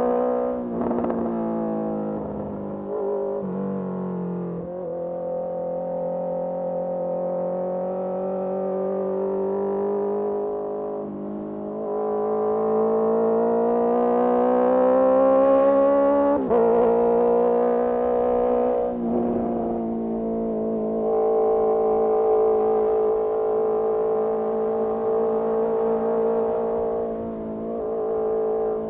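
Honda CBR650R's inline-four engine running through a Mivv MK3 carbon aftermarket exhaust while riding. The pitch climbs under throttle and drops sharply several times, then settles into a steady cruise over the last third.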